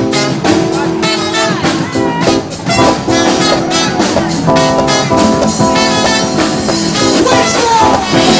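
Band music with a singing voice and a steady beat.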